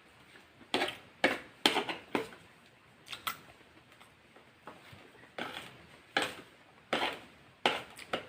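Close-miked eating sounds from a KFC meal of fried chicken, rice and mashed potato: a string of short, irregular crunches and smacks of chewing, with no talking.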